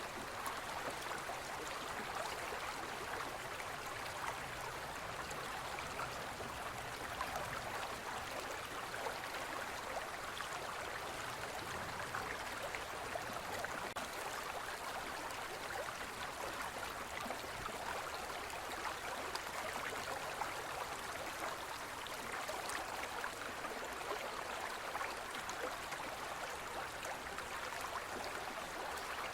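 Shallow forest stream flowing steadily over stones, a constant rushing with fine trickling and splashing.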